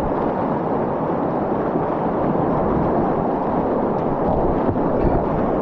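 Steady rush of whitewater on a river rapid, heard from a kayak running it.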